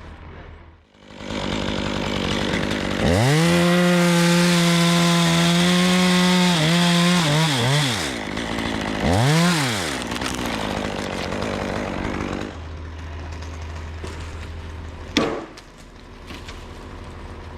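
Stihl chainsaw revved to full throttle and cutting through an oak limb for several seconds, then easing off, revving briefly once more and dropping back to a lower steady idle. A single sharp knock comes near the end.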